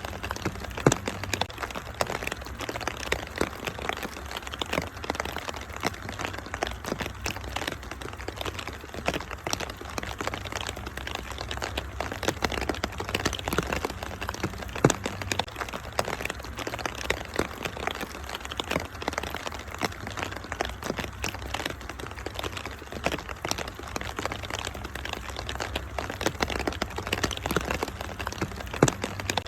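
Wood fire crackling with many sharp pops, a few louder ones about a second in, midway and near the end, over steady rain and a low constant rumble.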